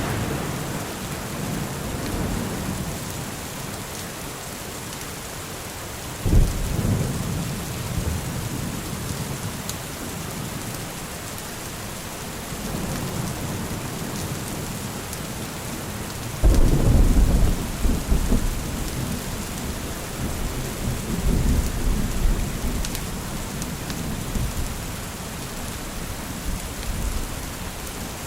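Steady rain with rolling thunder. A thunderclap breaks about six seconds in, and a louder one about sixteen seconds in rumbles on for several seconds; the tail of an earlier rumble fades at the start.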